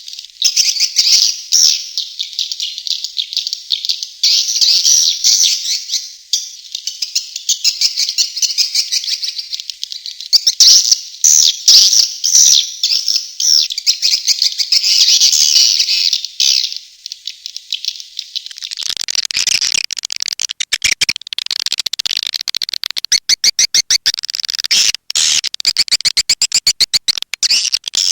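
Swiftlet call track: dense, high-pitched twittering and chirping of edible-nest swiftlets, continuous and fast. About two-thirds of the way through, a rapid train of sharp clicks joins the twittering.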